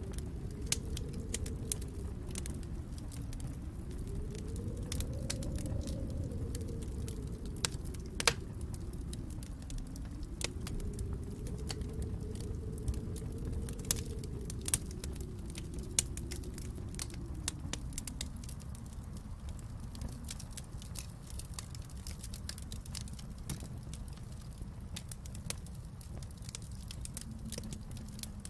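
Wood fire crackling in a fireplace, with irregular sharp pops and snaps over a low rumble that swells and fades several times and settles down in the last third.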